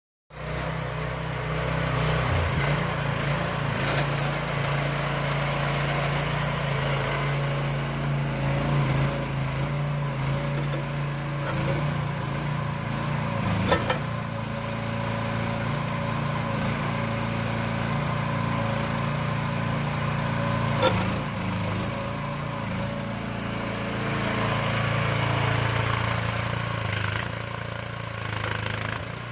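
Small engine of an AGROTK H15 mini excavator running steadily, its pitch shifting a few times as it works, with two short knocks along the way.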